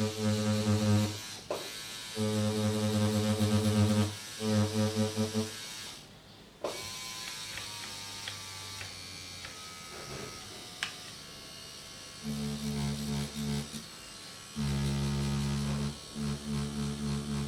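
Artist tattoo machine buzzing in short on-off bursts of one to two seconds, with a quieter stretch in the middle. The later bursts run at a lower pitch.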